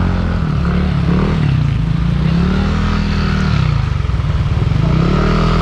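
Motor scooter engine running under way, its pitch rising over about two seconds, falling back, then rising again near the end as the throttle is opened and eased.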